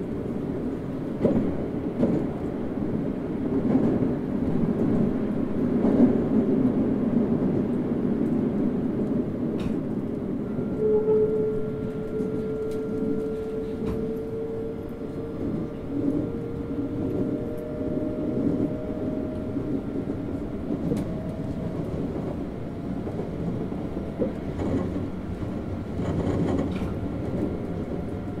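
Toei 5300 series electric train running, heard from on board: steady wheel and rail rumble with occasional rail-joint clicks. From about ten seconds in, a motor whine rises slowly in pitch as the train picks up speed.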